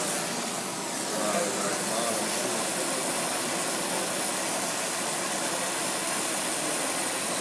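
Brazing torch flame hissing steadily as it heats a joint during brazing.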